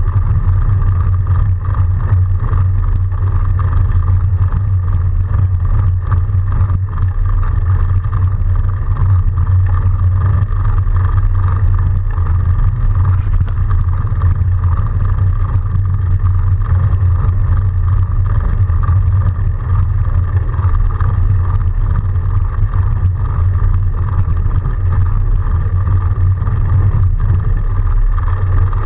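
Continuous riding noise from a Surly Moonlander fat bike with a BionX electric hub motor: a loud, constant low rumble with a steady hum above it, unbroken throughout.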